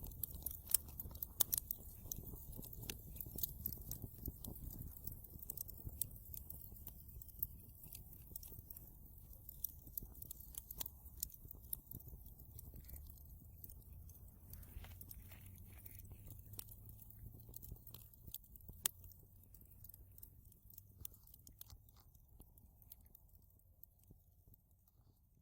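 Wood fire in a fireplace crackling: irregular sharp pops and snaps over a low rumble of flames, fairly quiet and slowly fading away toward the end.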